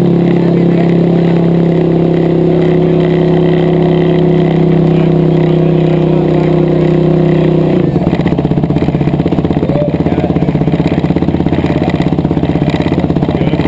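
Yamaha YFZ450 single-cylinder four-stroke engine running on a dyno test stand at a steady high speed; about eight seconds in its speed drops suddenly and it runs on lower with a rapid pulsing beat, as if being pulled down by the dyno's load.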